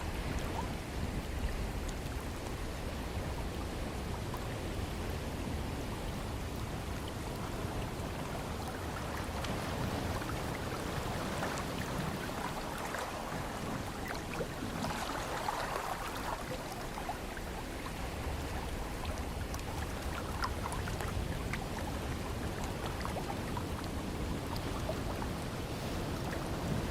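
Ocean surf washing in, a steady rushing that swells and eases every few seconds, with the fizz of small droplets and bubbles.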